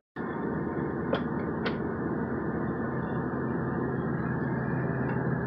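Steady low drone of a running vehicle, with two faint clicks between one and two seconds in. It starts after a brief cut and stops abruptly near the end.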